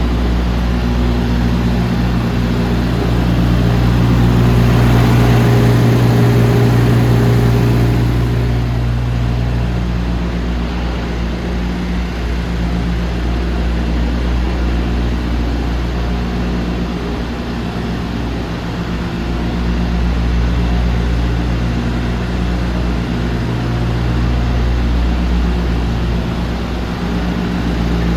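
Diesel engine of a DAF CF290 truck idling steadily, growing louder for a few seconds near the start before settling back.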